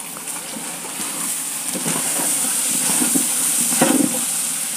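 Food sizzling in hot oil in a cooking pot, the hiss growing louder about a second in, with a few short knocks of a stirring spoon.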